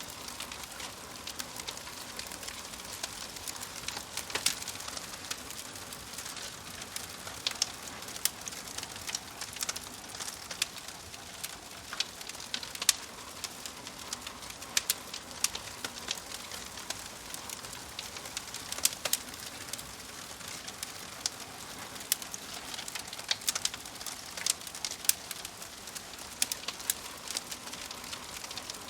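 Wood fire crackling: a steady soft hiss with frequent sharp snaps and pops at irregular intervals.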